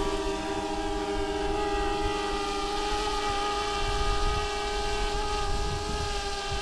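Original DJI Mavic Air quadcopter's propellers running in a steady, many-toned whine as the drone lifts off and climbs on its precision takeoff. An uneven low rumble sits underneath and grows near the end.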